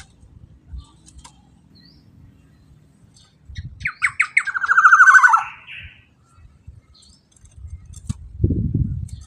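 Black-naped oriole (kepodang emas) calling: about four seconds in, a few short rising notes run into one harsh, nasal call that falls in pitch. Near the end there is a low, muffled sound.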